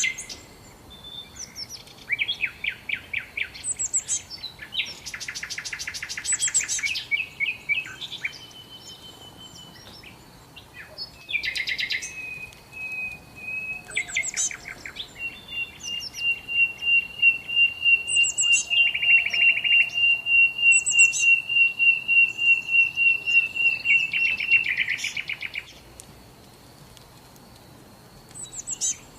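Songbirds singing: bursts of rapid chirps and trills, and one long steady high note held for about ten seconds in the middle.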